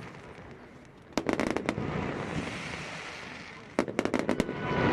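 Fireworks salute shells bursting: two volleys of rapid sharp bangs, one about a second in and one near the end, each trailing off in a fading rumble.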